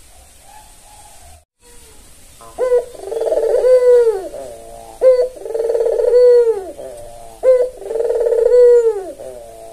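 Albino puter dove (domestic collared dove) cooing, starting a couple of seconds in. It repeats a phrase about every two and a half seconds, each a short sharp note followed by a long rolling coo.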